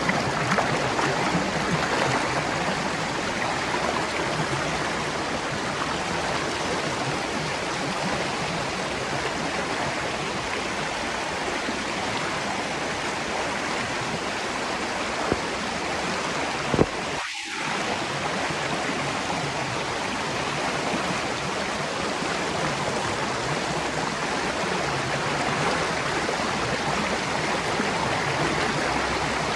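Spring water flowing in a steady, even rush. About two-thirds of the way through there is a sharp click and the sound cuts out for a fraction of a second.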